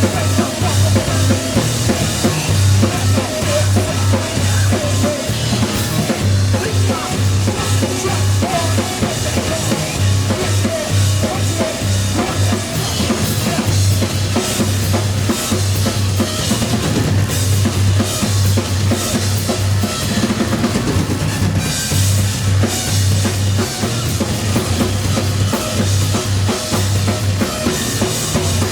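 Loud live band playing: a drum kit with kick, snare and cymbals over heavy bass guitar lines.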